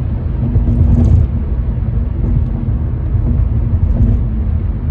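Steady low rumble of background noise with a faint hum over it.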